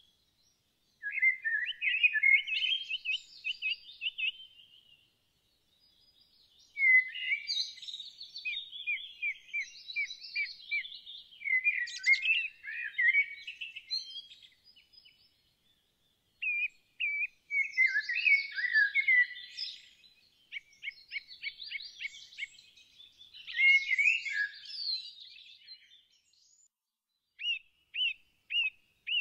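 A songbird singing in bouts of quick chirps and trills, each a few seconds long, with short pauses between them.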